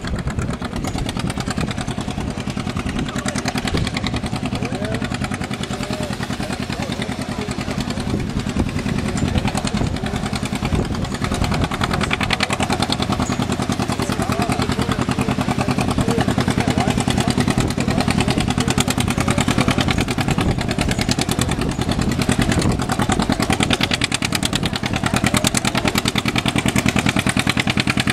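Tractor engine running steadily with a rapid, even firing beat, slowly growing louder.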